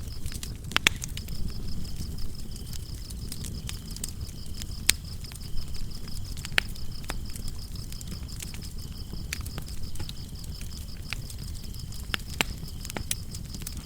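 Wood fire crackling with irregular sharp pops over the low rustle of the flames, with crickets trilling in a steady high continuous chirp.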